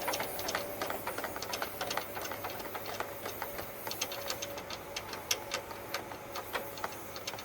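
Bird's nest twigs and debris being blown out of a dryer vent duct, making many irregular sharp clicks and ticks over a steady rush of air.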